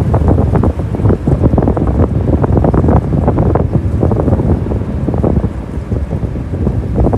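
Strong typhoon wind buffeting the microphone: a loud, gusting rumble that rises and falls irregularly.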